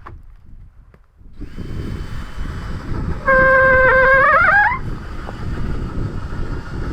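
Blizzard wind rushing in from about a second in, with a loud horn-like howl in the middle lasting about a second and a half, its pitch bending upward just before it stops.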